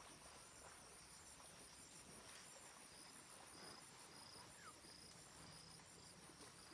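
Faint insect chorus: a steady high pulsing trill with short high chirps repeating about every half second, over quiet forest background.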